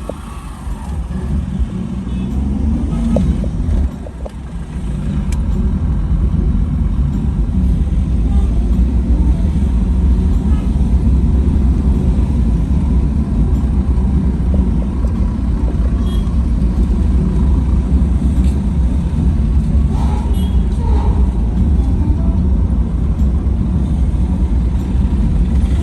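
Steady low rumble of a moving vehicle, growing louder about four seconds in and then holding steady.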